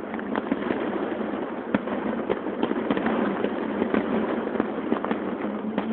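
Aerial fireworks display: shells bursting in a quick, irregular string of sharp bangs and crackles over a dense steady background of noise, one bang standing out a little under two seconds in.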